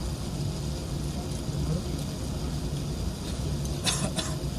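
Steady low hum and rush of an Airbus A380's cabin on the ground, heard inside the cabin, with faint murmur of passengers' voices. A quick double click about four seconds in.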